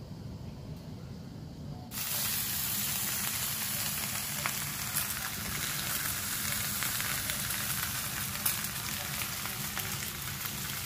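Food frying in a hot pan: a low steady hum at first, then about two seconds in a loud sizzle with small crackles starts up and keeps going.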